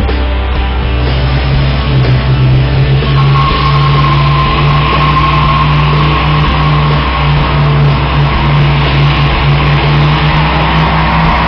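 Dodge Charger police car's engine revved and held high during a burnout, with the rear tyres squealing and spinning from about three seconds in. Rock music plays along with it.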